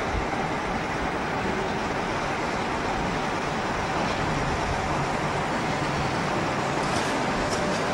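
AC electric locomotive hauling a rake of passenger coaches, approaching at low speed with a steady running noise, a few faint clicks near the end.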